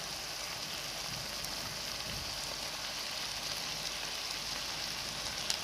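Chicken and vegetable stir-fry sizzling steadily in a hot pan, with a single light click near the end.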